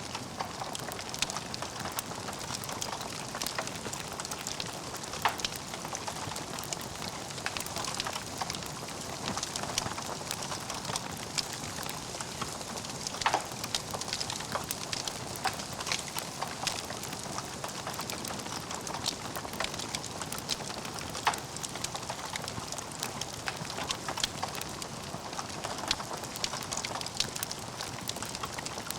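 Wood fire burning in a fireplace: a steady hiss dense with small crackles, and a few sharper, louder pops scattered through.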